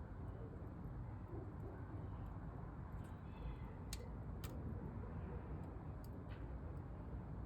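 Wood crackling in a camping stove: a few sharp pops, two of them about half a second apart, over steady low background rumble.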